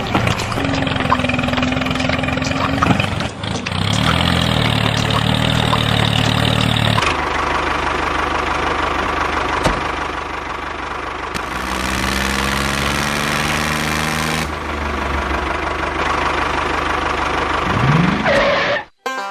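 Small motor of a home-made mini tractor running steadily with a humming engine-like tone. Its pitch and character change abruptly a few times, and a short rising whine comes near the end.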